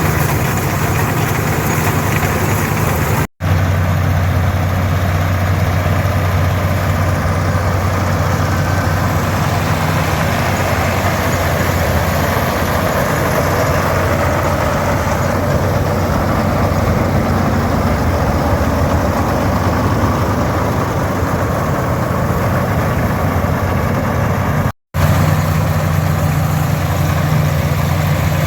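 Farmall 460 diesel tractor with its D-282 engine and an International 82 pull-type combine running steadily while harvesting oats, an even engine drone with the hum of the threshing machinery. The sound cuts out for an instant twice, about 3 seconds in and near the end.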